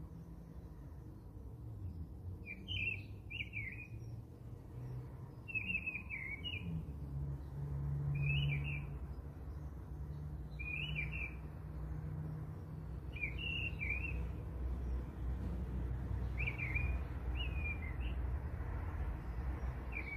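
A small bird chirping in short, repeated phrases every couple of seconds, over a steady low rumble.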